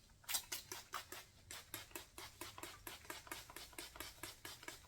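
Spray bottle misting water onto hair in quick, even squirts, about five a second.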